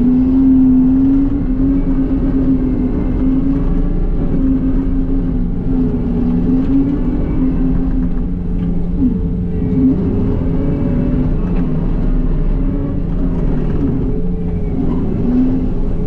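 John Deere 333E skid loader's diesel engine running steadily, its pitch dipping and rising a little as the machine works.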